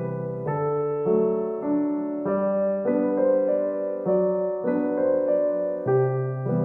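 Background piano music, a gentle electric-piano melody with notes changing about every half second over steady bass notes.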